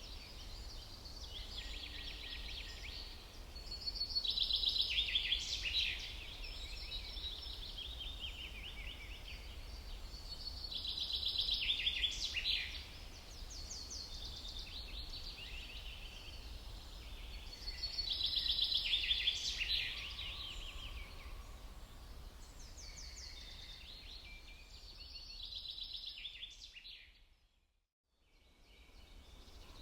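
Songbirds chirping and trilling in bursts that swell about every seven seconds, over a steady low rumble. Near the end the sound fades out for about a second and comes back.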